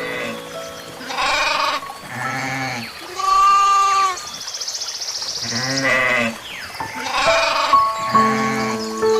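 An animal calling with about six short, bleat-like cries, some bending up and down in pitch, over background music with long held notes.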